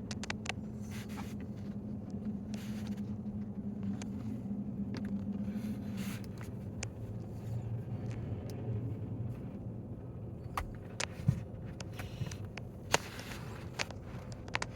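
Boeing 777 jet engines at takeoff power, a steady low rumble with a low hum that fades about six seconds in and gives way to a deeper rumble. A few sharp clicks come in the second half.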